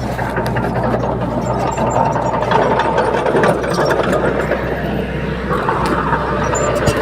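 Bulldozer diesel engine running steadily, with scattered sharp metallic clicks over it.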